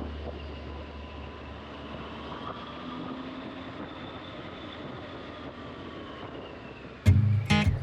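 A steady mechanical hum from a motor, with a thin whine that drifts slowly up and down in pitch. About seven seconds in, strummed guitar music starts suddenly.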